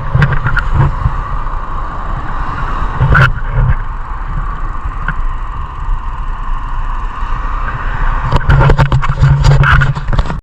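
Wind and road noise on an action camera's microphone during a ride: a steady low rumble with traffic and vehicle sound, and scattered knocks and rattles that grow more frequent near the end.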